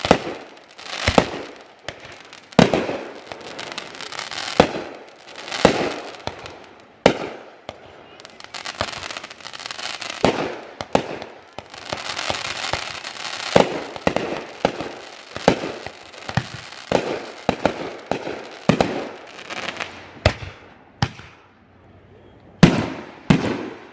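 Fireworks going off in quick succession: a long string of sharp bangs with crackling between them, thickest about halfway through and thinning out near the end.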